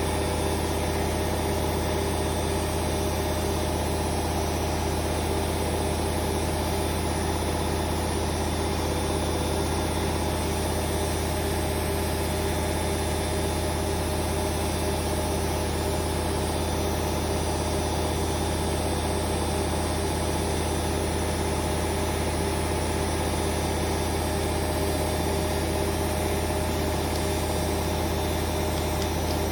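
Hoover Vision Dynamic washing machine spinning its drum at a steady speed: an even motor and drum hum with a constant low drone, no change in pitch.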